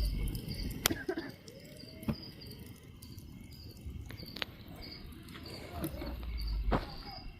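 Crickets chirping in an evenly repeated rhythm, with a few sharp clicks and low rumbles.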